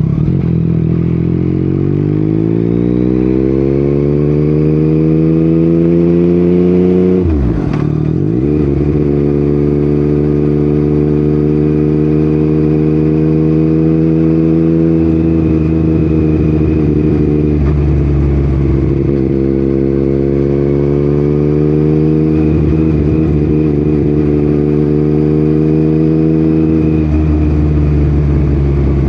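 Yamaha MT-09's inline-three engine through an Akrapovic exhaust, ridden under way. The revs climb steadily for the first several seconds, drop sharply and come back up about seven seconds in, then hold a steady cruising note with small throttle changes.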